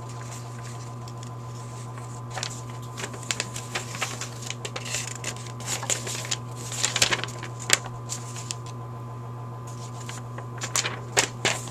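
Hands handling the paper instruction sheet and small parts of a carburetor rebuild kit: scattered rustles and light clicks, over a steady low hum.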